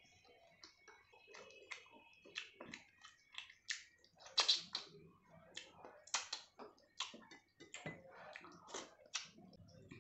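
Close-miked eating sounds: a person chewing a mouthful of rice and curry, with irregular wet smacks and clicks of the mouth, the loudest about four and a half seconds in.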